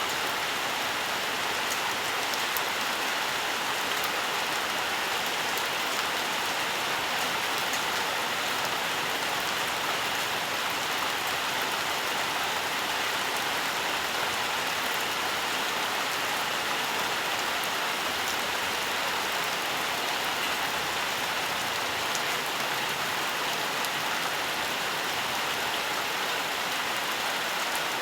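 Steady rainfall, an even hiss of rain with scattered drop ticks.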